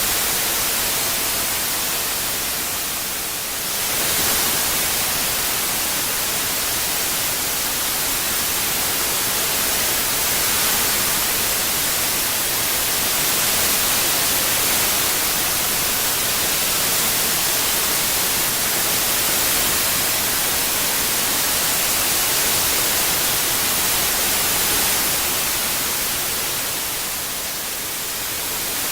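White noise processed as 8D surround audio: a steady, even hiss across the whole range. The hiss briefly dulls and softens about three seconds in and again near the end.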